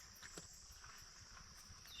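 Faint, steady high-pitched trilling of insects, such as crickets or katydids, with one soft click about half a second in.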